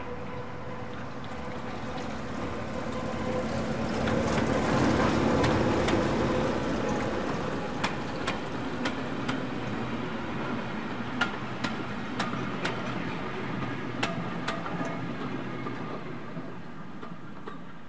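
A diesel-hauled train passing, loudest about five seconds in, then the wheels clicking over rail joints, mostly in quick pairs, as the train goes by and the sound fades.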